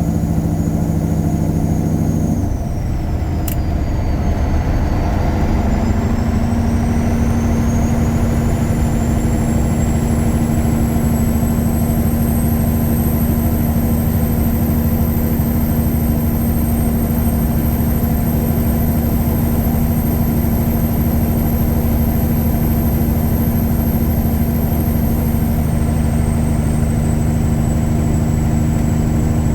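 A tuned Caterpillar 3406E diesel in a Freightliner Classic semi-truck, running under way. The engine note changes abruptly about two and a half seconds in, with a click a second later. A high whine then dips and climbs back over several seconds and holds steady with the engine.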